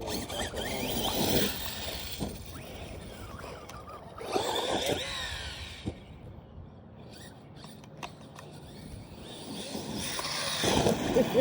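Arrma Kraton 6S RC car's brushless electric motor whining in three bursts of acceleration, the pitch falling away after the middle burst, with tyres squealing on the ground.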